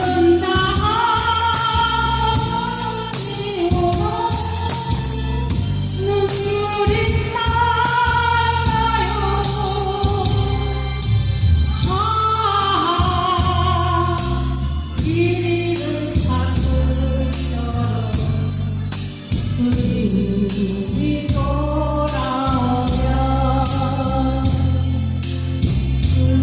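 A trot song playing: singing on long, held, sliding notes over a backing track with a steady beat and bass.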